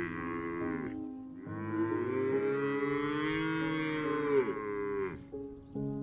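Cow mooing: the end of one moo in the first second, then a long moo of nearly four seconds that rises and then falls in pitch.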